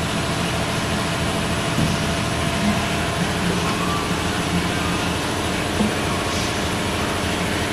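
Steady drone of industrial washing machinery running, a constant hum with an even hiss over it.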